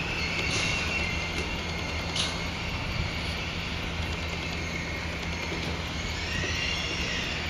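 Freight train rolling past with a steady rumble of wheels on rail. A thin, high wheel squeal comes and goes over it, with a few sharp clicks.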